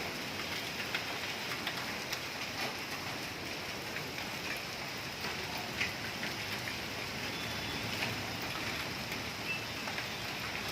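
Steady rain in a hailstorm, with many scattered sharp ticks of hailstones and drops striking hard surfaces.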